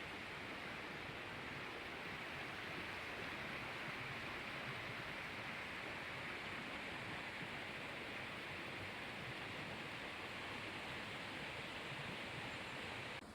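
Waterfall rushing in a steady, even hiss of falling water, cutting off suddenly near the end.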